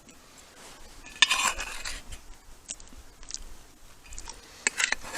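Someone eating biscuits and gravy: a fork scrapes across the plate about a second in and clicks against it near the end, with chewing in between.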